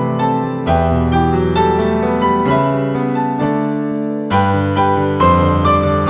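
Gentle piano music, notes played one after another over sustained low bass notes.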